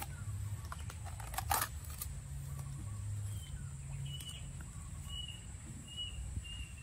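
A small bird calling with a run of short, high chirps repeated about every half second through the second half, over a steady low hum. A brief rustle of handling sounds about a second and a half in.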